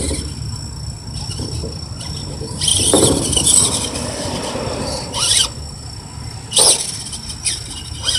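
Radio-controlled truck squealing in short, high-pitched bursts as it is driven, several times, with the longest about three seconds in, over a steady low rumble.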